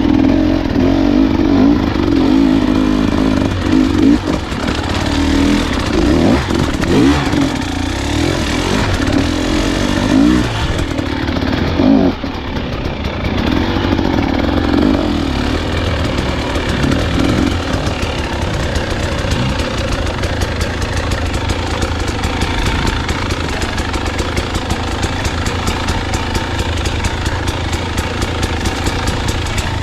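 Husqvarna enduro dirt bike engine, revving up and backing off again and again while riding a rough trail. In the second half the engine note is lower and a rapid clatter runs under it.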